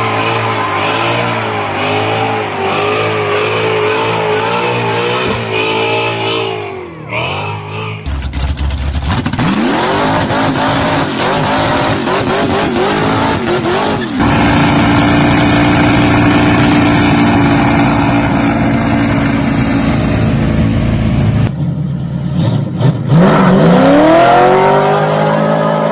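American muscle car V8 engines: an uneven idle, then revs that climb and fall back, and a steady high-revving stretch in the middle, with abrupt changes where one clip gives way to the next.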